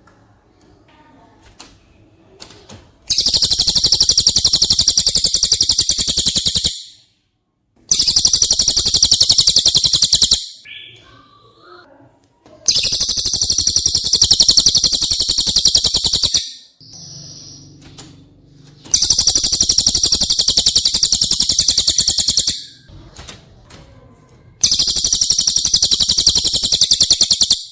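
Cililin song: five long, very fast, high trills of about three and a half seconds each, separated by short pauses.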